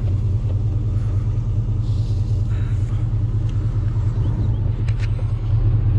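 An engine idling steadily with a low rumble, with a few light clicks about three and a half and five seconds in.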